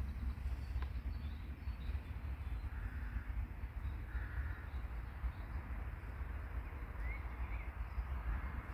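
A bird gives a few short, harsh calls, two of them close together about three and four seconds in, and a brief faint chirp follows later, over a steady low rumble.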